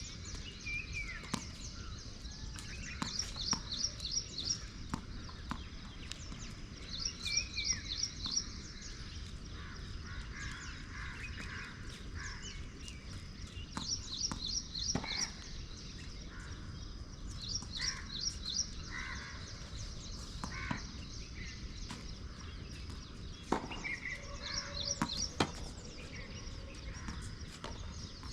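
Birds calling: a short run of about four quick rising chirps repeated every few seconds, with other scattered calls between, over a steady background noise.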